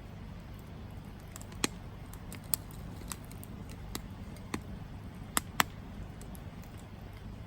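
Wood campfire burning with a steady low rumble and irregular sharp pops and crackles, about eight in all, the loudest two close together about five and a half seconds in.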